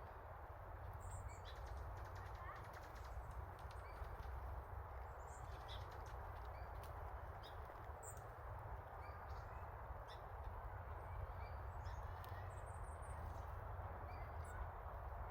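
Small birds giving short, high chirps scattered here and there over a steady outdoor background hiss and low rumble, with a few light clicks.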